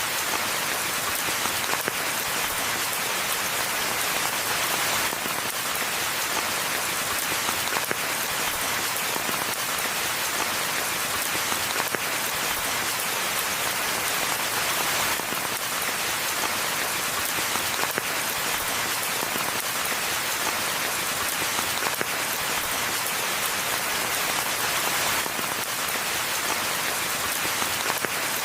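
Steady rainfall in a forest: an even hiss of rain with many small drop impacts pattering on leaves and the ground.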